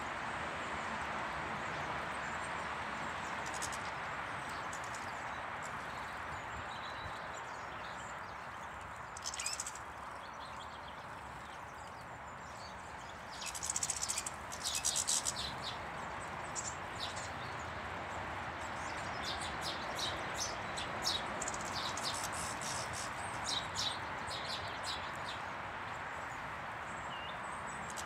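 Small garden birds chirping and twittering in short bursts, loudest about a third of the way in and scattered through the second half, over a steady rushing background noise.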